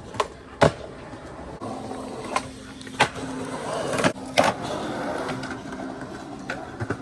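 Skateboards rolling on pavement, with a series of sharp clacks as boards hit the ground, loudest about half a second in and around three and four and a half seconds.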